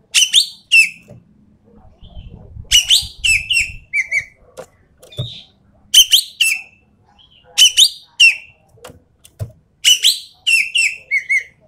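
Ekek keling (green magpie) calling: loud, shrill whistled notes that drop sharply in pitch, given in quick runs of two to four and repeated every one to two seconds, as on a masteran tutor recording for cage birds. A low rumble runs under the calls for a couple of seconds early on.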